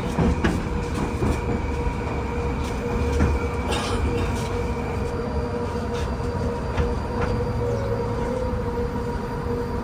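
Moscow metro train of type 81-775.2/776.2/777.2 heard from inside the car: a steady low rumble under a constant whine, with scattered clicks and knocks from the wheels and car.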